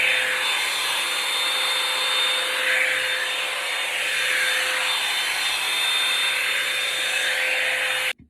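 Revlon One-Step hot-air brush dryer running steadily, a rush of blown air with a thin steady whine over it, cut off suddenly near the end.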